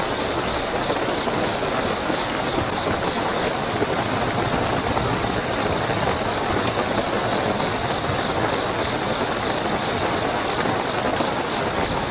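Steady heavy rainfall with a continuous high-pitched trill of night crickets running unbroken over it.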